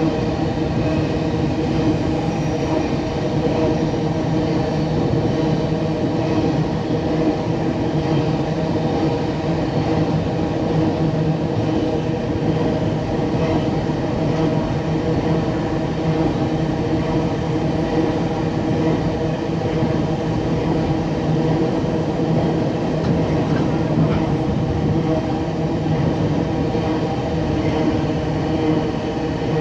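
Freight train running steadily, its diesel locomotive engines holding a constant low drone with several steady tones.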